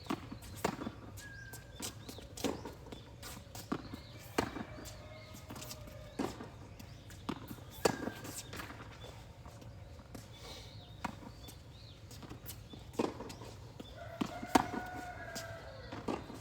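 Tennis ball being struck by racquets and bouncing on the court during a rally: sharp pops about every one to two seconds, with a few short squeaks in between.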